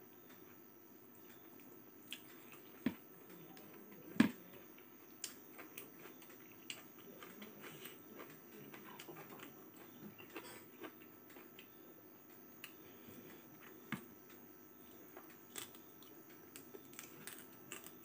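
Faint, close-up chewing and biting of tough meat skin by a person eating with his hand, with scattered sharp mouth clicks and smacks, the loudest about three and four seconds in.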